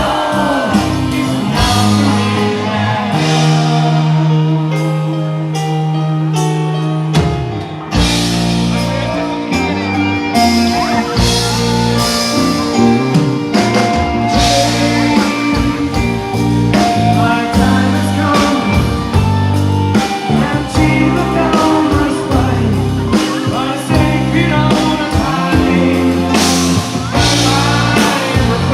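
Rock band playing, with some singing; after a sparser passage the full band comes in about eight seconds in.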